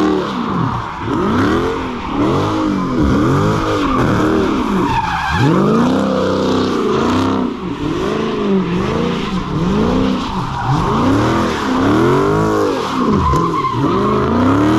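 V8 car engine revving hard up and down over and over, about once a second, as the car slides with its tyres spinning on wet pavement.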